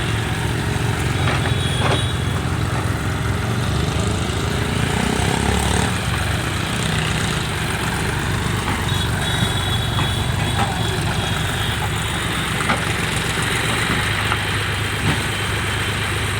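Heavy diesel machinery engines running steadily under work, with a few short metal knocks and a faint high whine that comes and goes.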